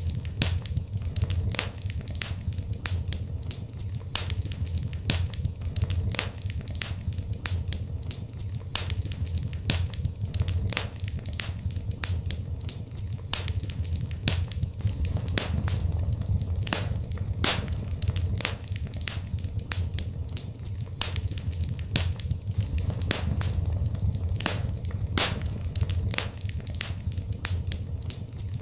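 Wood fire burning in a fireplace: a steady stream of sharp crackles and pops over a low rumble of flame.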